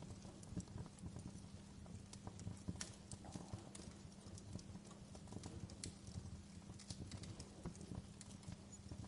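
Wood fire burning low in a fireplace, crackling steadily with many small, irregular pops and snaps over a low, steady hum.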